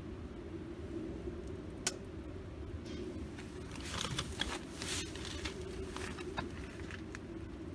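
Wood fire burning in a UNIFLAME fire grill, crackling over a steady low rumble. There are scattered sharp pops: one about two seconds in, a small cluster around four to five seconds in, and another a little later.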